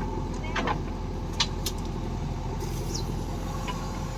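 A farm machine's engine running steadily, with a few short clicks and knocks over it.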